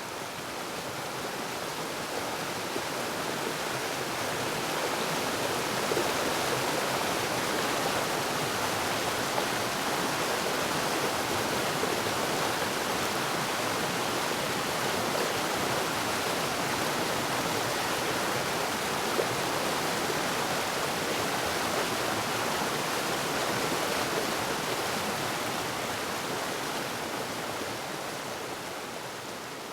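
Waterfall: a steady rush of falling water. It swells over the first few seconds and eases off near the end.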